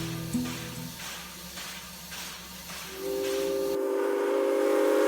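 Acoustic guitar music fades out, then from about three seconds in a steam locomotive whistle sounds a steady chord of several notes over a hiss of steam.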